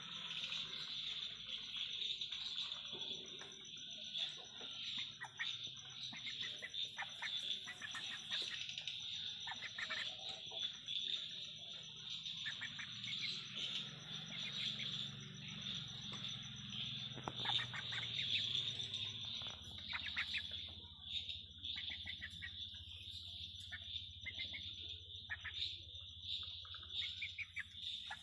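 Steady high-pitched insect trilling throughout, with scattered short bird chirps over it.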